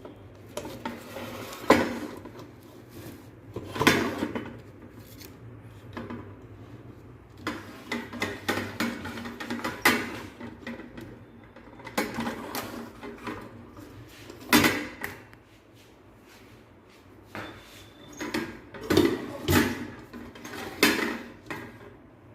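Rice cooker pot and accessories being handled and set down: a string of irregular knocks, clatters and rustles, with a few sharper clacks, a short lull partway through, and a faint low hum underneath.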